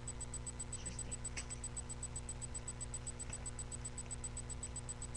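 Steady electrical hum and hiss of a webcam microphone, with a fast, even faint ticking and a few faint brief rustles.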